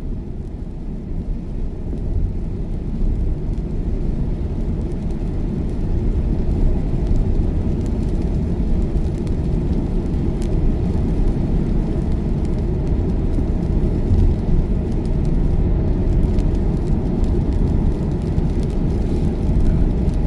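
Steady tyre and road rumble heard from inside an electric Tesla's cabin at motorway speed on a rain-soaked road, building over the first few seconds and then holding level.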